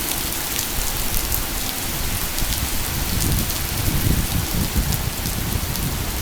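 Heavy rain pouring steadily, a constant hiss with scattered sharp drop ticks.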